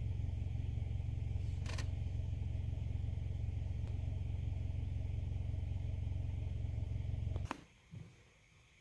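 2015 Nissan Altima's 2.5-litre four-cylinder engine idling steadily and smoothly, with no misfire now that the stuck valve timing control solenoid has been replaced. The hum cuts off suddenly about seven and a half seconds in.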